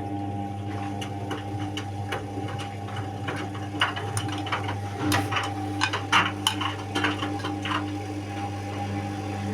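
Indesit WIU81 front-loading washing machine running on its quick 30° programme: a steady motor hum with a few fixed tones. Over it comes an irregular run of clicks and knocks, thickest in the middle of the stretch.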